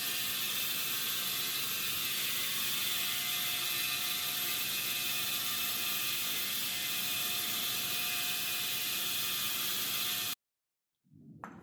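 A woodworking power machine running steadily with an even whir, cutting off abruptly about ten seconds in.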